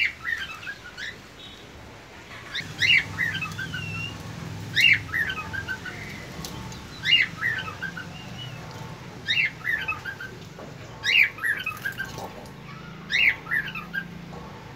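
Birds calling: a short run of quick chirps falling in pitch, repeated about every two seconds. A low steady hum runs underneath from about two seconds in.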